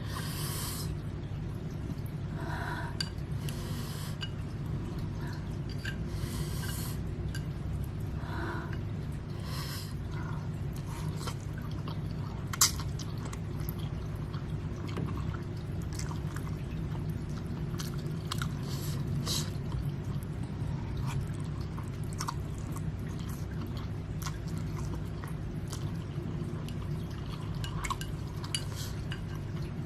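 A person eating Samyang ramen noodles close to the microphone: several short slurps early on, chewing, and one sharp click about twelve seconds in, over a steady low hum.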